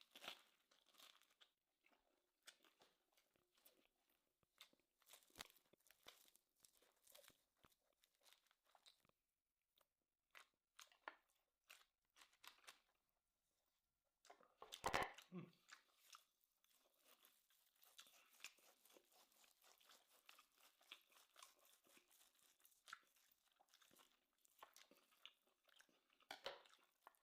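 Faint close-up eating sounds: crunching and chewing of food with scattered small clicks and crackles. There is a louder knock about halfway through.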